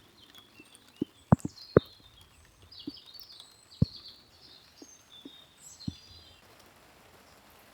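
Small birds chirping and warbling in short high phrases, with a handful of sharp knocks, the loudest two close together about a second and a half in.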